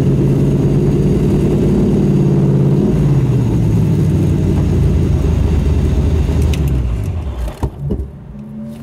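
Cheetah roadster's V8 engine running at a low, steady idle. The note drops in pitch about three seconds in, and the engine is switched off about seven and a half seconds in.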